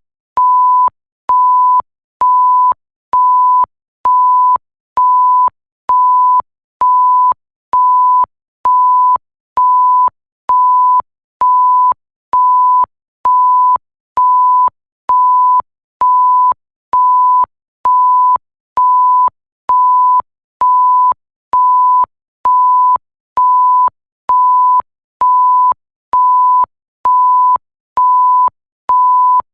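Censor-style bleep sound effect: a pure 1 kHz tone beeping on and off evenly, a little more than once a second, each beep about half a second long. Each beep starts and stops abruptly with a faint click.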